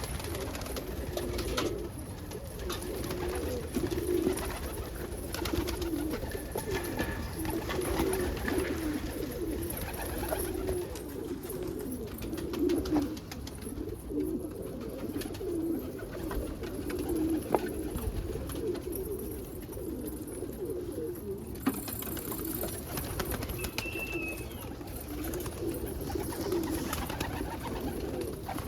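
Pet birds of the pigeon family cooing, a steady run of low, repeated coos that overlap one another.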